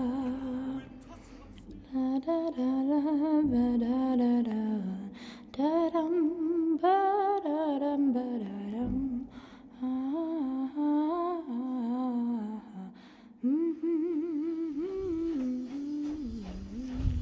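A single voice humming a slow melody without words, in several phrases separated by short breaks, its pitch wavering slightly on held notes.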